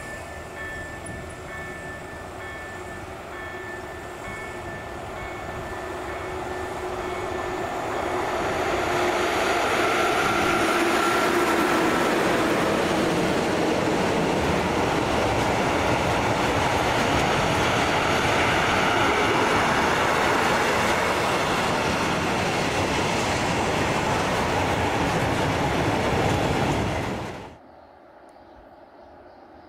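Freight train hauled by an electric locomotive, passing close with a long string of open-top wagons: the rumble and clatter of wheels on the rails swells over the first several seconds, holds loud and steady as the wagons roll by, then cuts off suddenly near the end to a quiet background.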